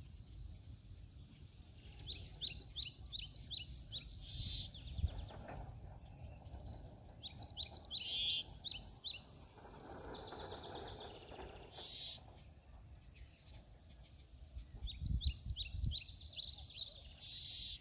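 Songbird calling: runs of short, rising, high chirps, about four a second, repeated three times. A brief high hiss comes every four seconds or so, and a low rumble runs underneath.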